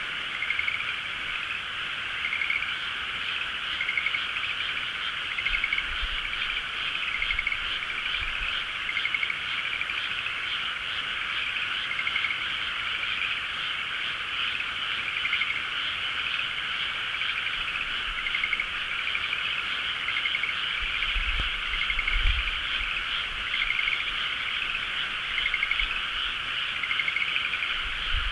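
Dense chorus of many frogs calling at once, a steady wall of overlapping croaks with short pulsed calls repeating about every second. Low rumbles come in twice, about a quarter of the way in and again about three quarters in.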